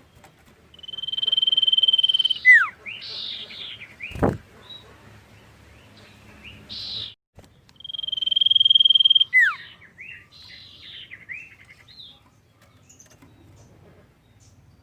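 A common iora (cipoh) singing: twice it gives a long, steady, high whistle that ends in a quick downward swoop, followed by a run of short chattering notes. About four seconds in, a brief sharp sweep falls from high to very low pitch.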